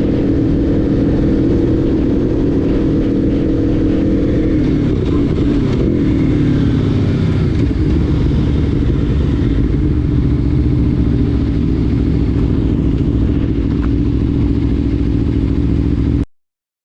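Motorcycle engine running steadily, its pitch falling about five to seven seconds in as the revs drop, then holding until the sound cuts off abruptly near the end.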